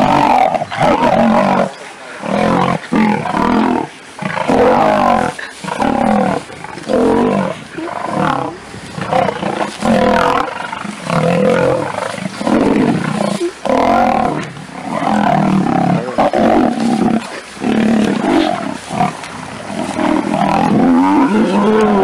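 Male lions fighting, two males attacking a third pinned on the ground: a stream of short, loud snarls and roars, one burst after another with brief breaks.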